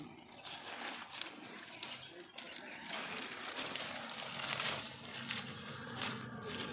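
Rain pattering, an irregular run of small ticks and rustling.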